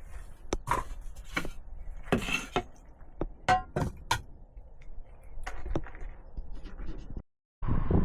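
Irregular knocks and clinks of objects being handled, over a low rumble, cut off abruptly near the end and replaced by a steady hiss.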